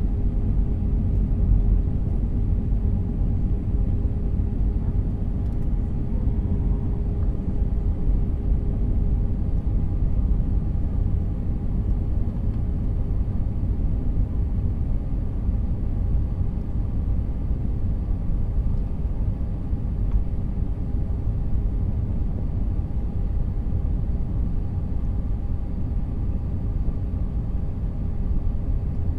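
Steady rumble of a jet airliner heard from inside the cabin, with a constant hum over it.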